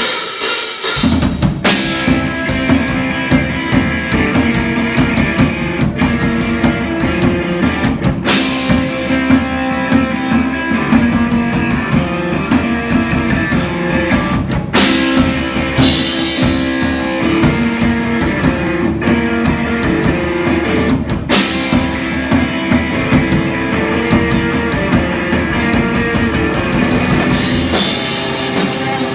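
Rock band playing live: a drum kit and guitar, with the low end of bass and drums filling in about a second in.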